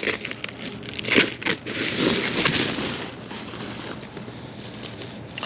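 Packaging being handled: crinkling and rustling with a few sharp knocks, busiest for the first three seconds, then quieter.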